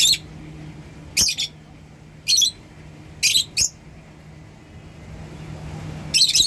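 Lovebirds giving short, shrill chirping calls, about one a second, then a pause of a couple of seconds before another call near the end.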